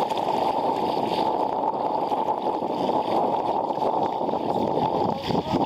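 Steady rushing and gurgling of water along a sailing sea kayak's hull as it runs fast through chop, mixed with wind noise.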